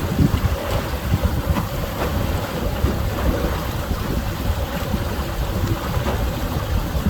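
Steady wind rushing over the microphone on a boat, with boat and water noise underneath.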